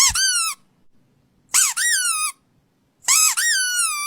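Squeaky toy squeezed in three quick bursts about a second and a half apart, each a run of shrill squeaks that rise and then fall in pitch.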